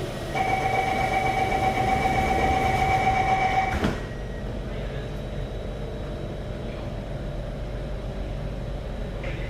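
Alstom Metropolis C751A metro train's door-closing warning tone, a single steady beep held for about three and a half seconds, ending in the thud of the sliding doors shutting. After that comes the steady low hum of the train's interior.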